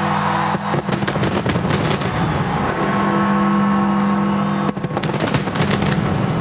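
Fireworks exploding in two dense volleys of bangs and crackles, over a steady sustained chord of music.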